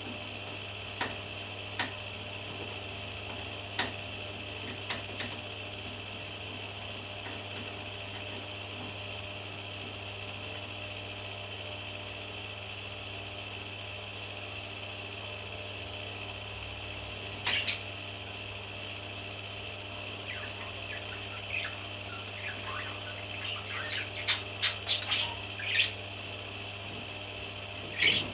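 Baby parrot chicks giving short, sharp chirps: a few scattered ones early on, one louder call past the middle, then a quick run of chirps in the last several seconds, over a steady low hum.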